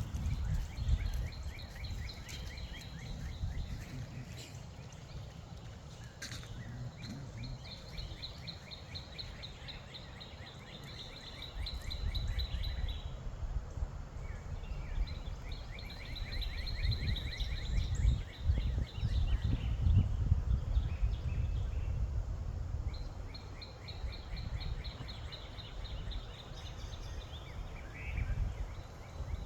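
A songbird singing long trilled phrases of rapid notes, four phrases each several seconds long with short pauses between. Wind rumbles on the microphone throughout, stronger midway.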